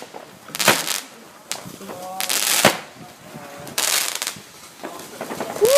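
Fireworks going off in a series of separate bursts, about four of them a second or two apart, with people's voices faintly in between.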